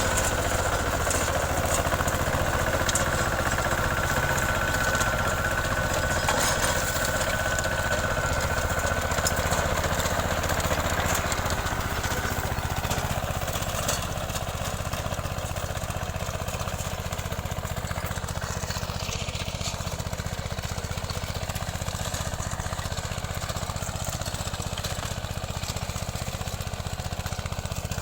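Small 14 hp diesel engine of an Apollo mini tractor running steadily. A high whine sounds over it for the first half, then fades out, leaving the engine alone and slightly quieter.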